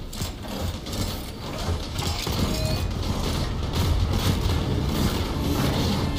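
Sound effects of a moving train in an animated action scene: a steady low rumble with dense mechanical clattering.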